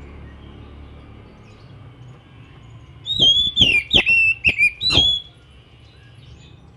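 Oriental magpie-robin (kacer) singing a short loud phrase of about five or six sharp whistled notes, each slurring downward, starting about three seconds in and lasting about two seconds.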